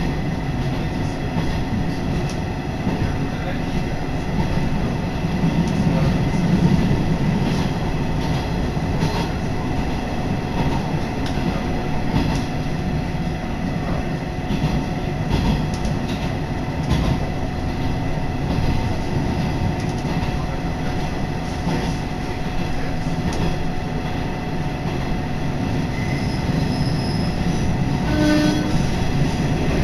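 Cabin of a Hisatsu Orange Railway diesel railcar under way: a steady rumble of engine and wheels on the track, with scattered rail-joint clicks. A brief higher-pitched tone sounds near the end.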